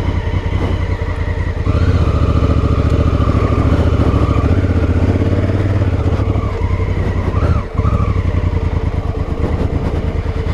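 Honda Africa Twin's parallel-twin engine running as the motorcycle is ridden. It gets louder and pulls harder about two seconds in, then drops off briefly shortly before eight seconds.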